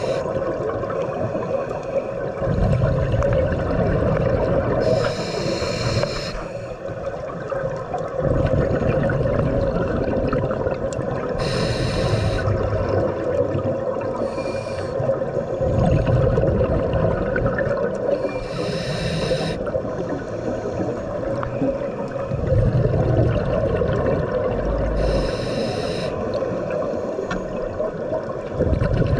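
Scuba diver breathing through a regulator underwater, each breath cycle taking about six seconds. Each inhale is a short hiss, and each exhale is a rumble of exhaust bubbles, over a steady hum.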